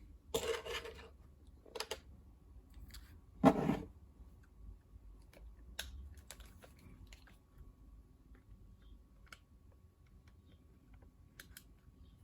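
Small clicks and taps of a die-cast toy van being handled while its rear door is worked open, with a short rustle near the start and a louder knock about three and a half seconds in.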